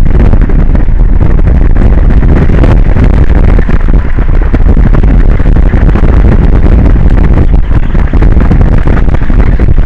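Strong wind buffeting the microphone: a loud, continuous, deep rumbling noise with no pauses.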